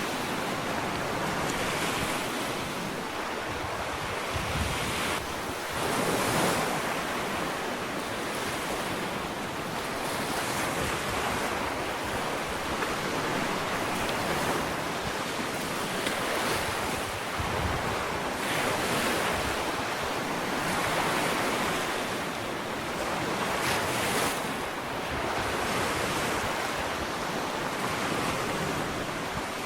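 Ocean waves breaking and washing up a sandy beach, a continuous surf hiss that swells every few seconds as each wave comes in.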